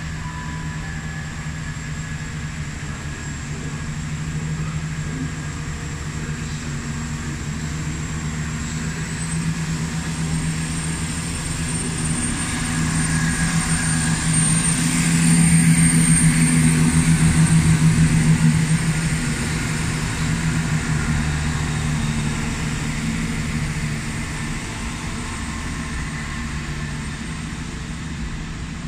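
CrossCountry Class 170 Turbostar diesel multiple unit pulling out of the station, its underfloor diesel engines running steadily under power with a faint high whine. The engine note grows louder to a peak about halfway through as the train passes, then eases off, with no horn.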